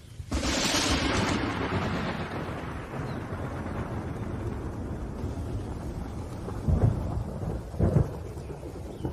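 A thunderclap over steady rain: a sudden sharp crack that rolls off into a long low rumble, with two more deep booms near the end.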